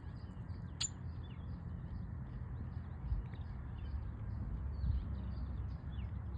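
A flock of red-winged blackbirds calling, many short chirps overlapping without a break, over a steady low rumble. A single sharp click comes just under a second in.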